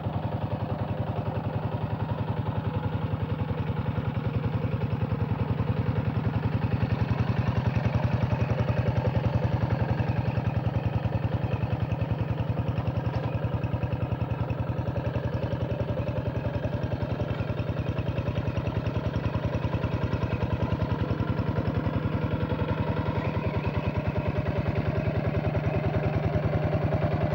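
Single-cylinder diesel engine of a two-wheel hand tractor running steadily, with an even, rapid chug of firing strokes.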